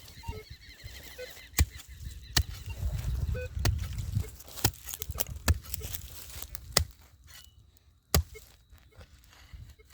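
Digging into soil at a metal-detector target: about half a dozen sharp knocks from the digging tool, with scraping and handling noise between them.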